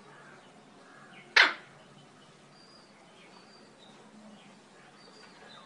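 Eclectus parrot giving one loud, short, harsh squawk about a second and a half in, with faint high chirps of small birds in the background.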